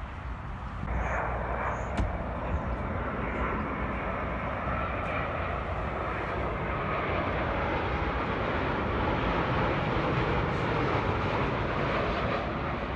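Jet airliner on approach passing by: a rushing engine noise that comes in about a second in and builds steadily, loudest near the end.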